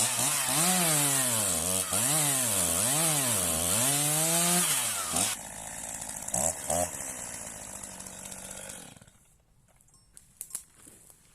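Chainsaw cutting into a tree trunk, its engine pitch dipping and rising over and over under load. About five seconds in it drops to idle, is revved briefly twice, and is shut off about nine seconds in. The chain has gone tight for lack of lubrication: sawdust has blocked the oil hole in the bar.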